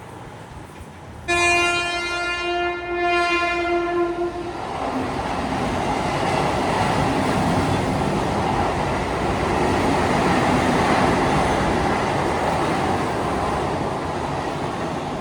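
A train horn sounds one long blast of about three seconds, starting about a second in. It is followed by a passing train's steady rumble of wheels on the rails.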